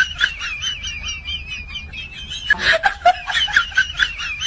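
A bird chirping in a fast, wavering high warble, with a burst of sharper, louder calls about two and a half seconds in.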